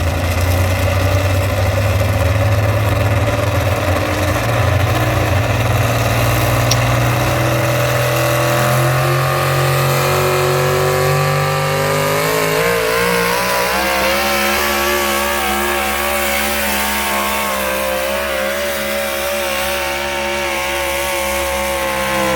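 Tractor engine at full throttle during a pull. Its pitch climbs steadily for about twelve seconds, then holds high and wavers, and it winds down sharply at the very end.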